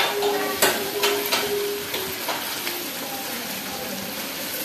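Chicken frying and sizzling in a nonstick karahi while a silicone spatula stirs and scrapes it. A few scraping strokes come in the first two seconds, then a steady sizzle.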